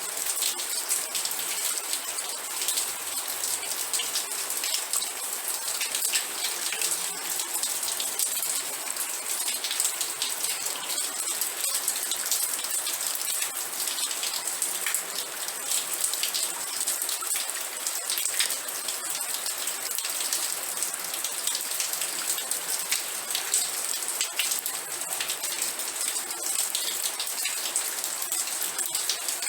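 Steady rain: a dense, even patter of many raindrops hitting a surface, with no lulls or changes.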